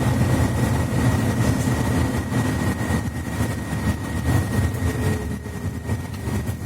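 Inside a Mercedes-Benz Citaro C2 articulated bus with a Voith automatic gearbox, running on the road: a steady low engine and drivetrain rumble with road noise, and a thin, steady high whine over it.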